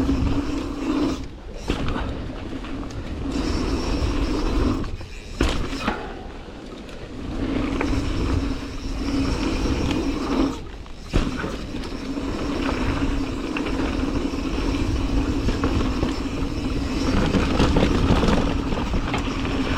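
Mountain bike being ridden down a dirt trail: steady rolling tyre and trail noise that drops away briefly three times, about a second in, about five seconds in and near the middle.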